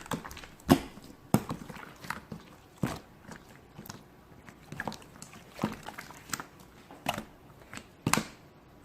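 Slime being squeezed and played with by hand, making irregular sticky clicks and pops.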